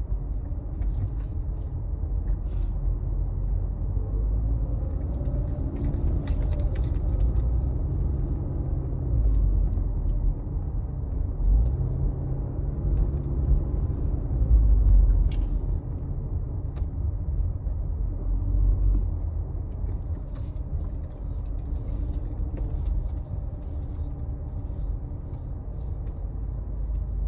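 Car in motion heard from inside the cabin: a steady low rumble of engine and road noise that swells and eases, with a few faint clicks and rattles.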